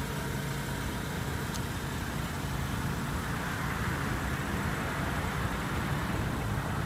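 Steady low hum of an idling vehicle engine, with no revving or other distinct events.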